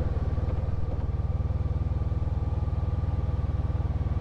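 Honda ST1300 Pan European's V4 engine running steadily as the motorcycle is ridden, a low, even beat of engine pulses.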